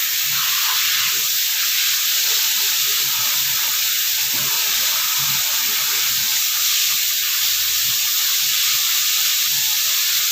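Water spraying steadily from a newly fitted hand-held shower head, an even hiss that does not change.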